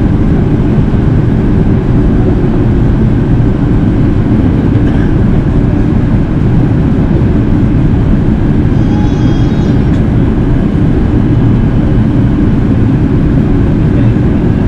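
Steady cabin noise inside an Airbus A380 in flight: a constant low rumble of engines and rushing air that does not change.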